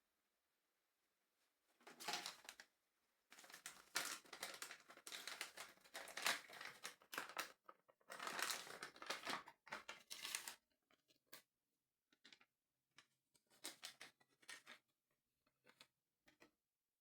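Crinkling and rustling of a plastic LEGO parts bag being handled, in dense bursts for several seconds, followed by a scattering of light clicks.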